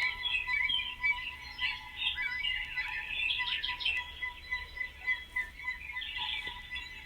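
Several birds chirping and twittering at once, a dense run of short overlapping calls, over a faint steady tone.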